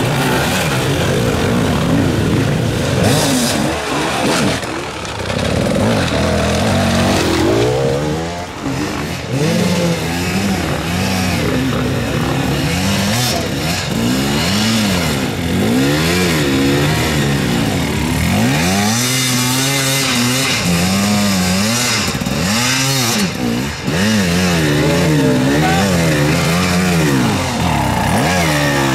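Hard enduro dirt bike engines revving, the throttle opened and closed again and again so the pitch rises and falls every second or two.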